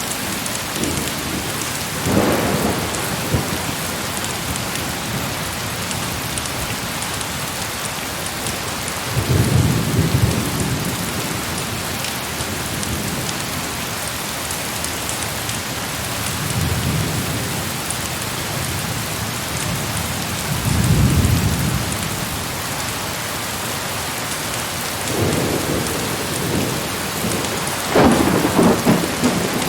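Heavy rain falling steadily, with about six rolls of distant thunder rumbling up and fading away one after another, the strongest near the end.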